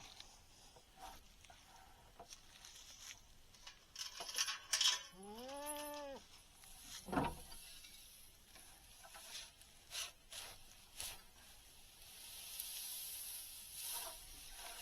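A goat bleats once, about five seconds in: a single call about a second long that rises and then falls in pitch. Scattered rustling and sharp knocks run around it, the loudest just before the bleat and a knock about two seconds after it.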